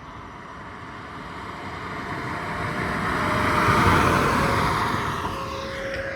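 A road vehicle passing by on the highway: tyre and engine noise that swells to a peak about four seconds in, then fades away.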